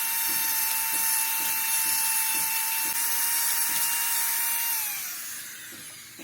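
Electric power tool motor running at a steady high pitch with a hiss, then switched off and winding down, its pitch falling, about five seconds in.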